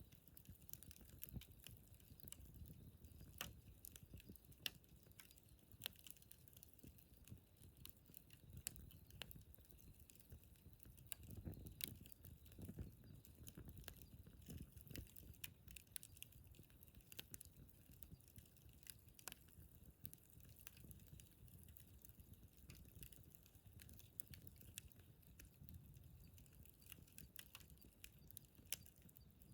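Wood campfire crackling faintly, with frequent small snaps and pops over a low rush of burning, which swells briefly about twelve seconds in.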